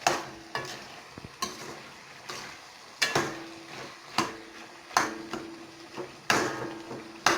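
A metal spoon stirring in a cooking pot, knocking against its side about a dozen times at uneven intervals, some knocks leaving a short ring, over a faint sizzle.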